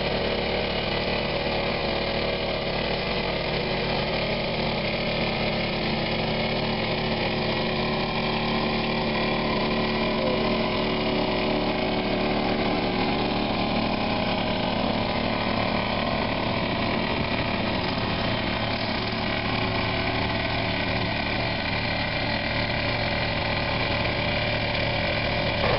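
Car engine idling steadily, with its exhaust note even and unchanging.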